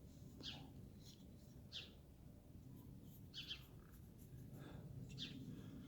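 Faint pencil strokes on carving wood: about five short scratches, roughly a second apart, over near silence.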